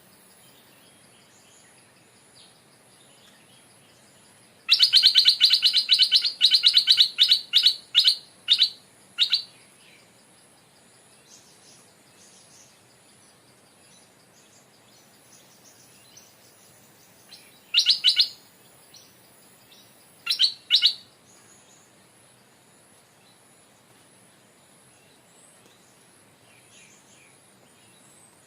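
Stripe-throated bulbul calling: a loud run of quick chattering notes that slows and thins out over about five seconds, then a short burst and a quick pair of notes later.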